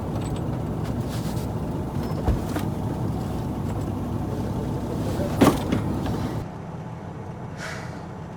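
Semi truck's diesel engine running steadily, heard from inside the cab, with a couple of sharp knocks, the second and louder one about five and a half seconds in. About six seconds in, the sound drops abruptly to a quieter, duller engine hum.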